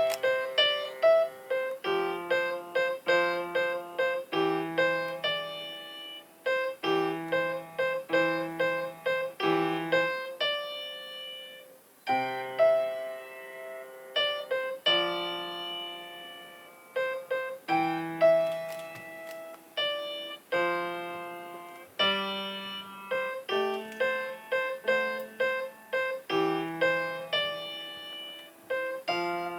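Solo piano playing a slow melodic piece: a repeated middle note pulses under the melody, with bass notes below. The playing thins out briefly about halfway through, then picks up again.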